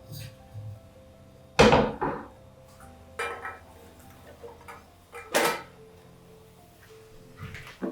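A few knocks and clatters of household items being handled and set down, two of them louder than the rest, over soft background music.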